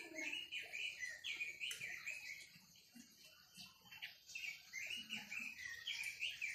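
A songbird of the kind Vietnamese bird keepers call quế lâm singing a lively run of short, quick chirping notes, a little softer for a second or two in the middle.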